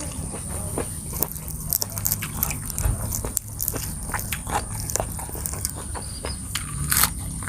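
Close-miked chewing and biting of food, with many short irregular crunches and mouth clicks. A steady high-pitched tone runs underneath.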